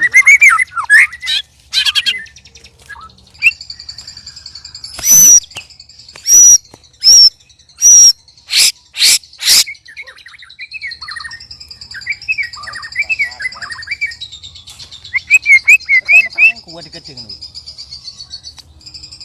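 Several white-rumped shamas (murai batu) calling at one another, set off by the sight of rival birds, with strange, loud notes. A high trilling runs underneath short rising chirped phrases, and a run of about eight very loud, sharp notes comes from about five to ten seconds in.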